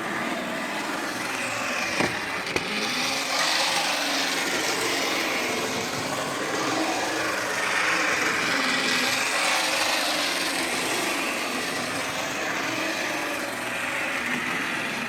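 Minitrix N gauge Warship class diesel model locomotive running along the track: the steady whir of its small electric motor and gears, with the light rattle of its wheels on the rails.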